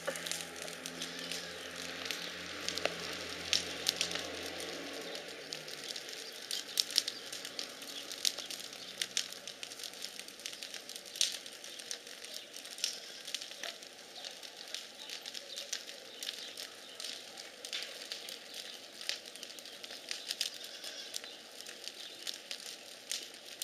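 Bonfire crackling, with frequent irregular sharp snaps and pops.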